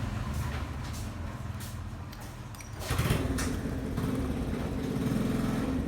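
An engine running steadily, louder from about three seconds in.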